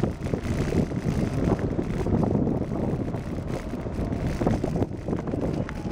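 Wind buffeting the microphone of a handlebar-mounted camera on a moving bicycle, a steady rough rumble, with road and tyre noise from the ride underneath.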